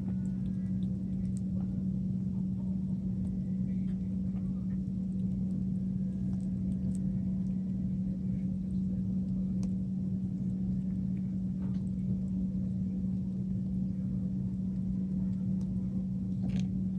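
A steady low hum holds one even pitch throughout, with a low rumble beneath it and a few faint scattered clicks.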